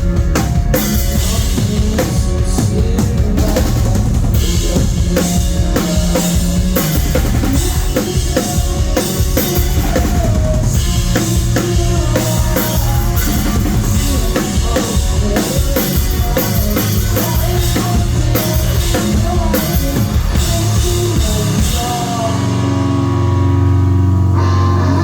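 Live rock band playing loud, with a full drum kit driving the song: kick drum, snare and cymbals over distorted guitars and bass. About 22 seconds in the drums stop, leaving held guitar and bass chords ringing.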